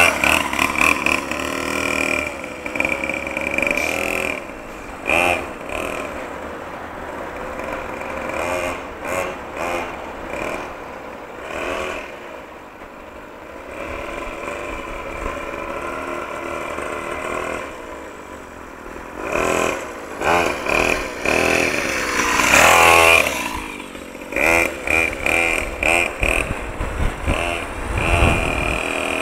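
Motocross bike engine revving up and down as it is ridden, its pitch rising and falling in short surges. It is fainter in the middle and comes loud and close about twenty-three seconds in.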